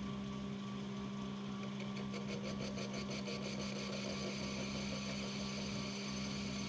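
Metal lathe running steadily while a boring cut opens the bore of an exhaust casting out to 39.3 mm, the tapping size for a 1¼ BSP thread. A fine, rapid ticking runs through the middle seconds.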